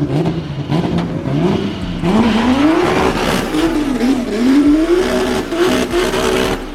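Car engine revving hard over and over, its pitch climbing about two seconds in and then swinging up and down in quick blips, with a rushing noise over the loudest middle stretch.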